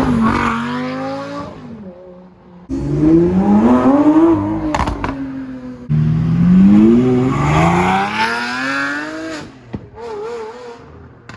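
Sports car engines revving up as the cars accelerate, each engine note rising in pitch, in three short runs that start abruptly one after another.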